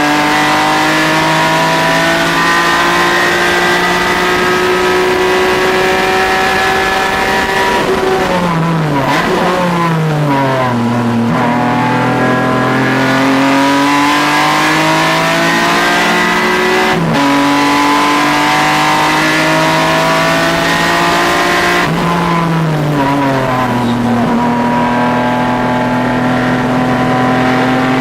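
Car engine on a track lap, pulling hard with its pitch climbing steadily, then braking and downshifting twice with quick rev blips, and shifting up once between the two.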